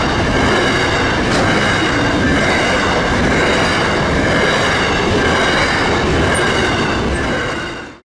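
Freight train's double-stacked container wagons rolling past: a steady rumble and rattle of wheels on rail with a faint high whine above it, fading out and cutting to silence near the end.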